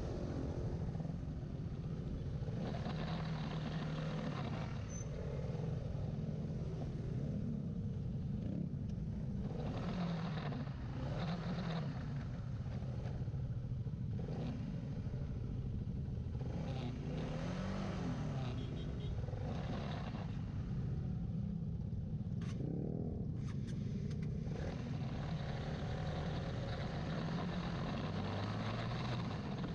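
Old Honda CBR150R single-cylinder four-stroke engine, running on a freshly set carburettor, pulling while the bike is ridden. Its pitch rises and falls again and again with the throttle and gear changes.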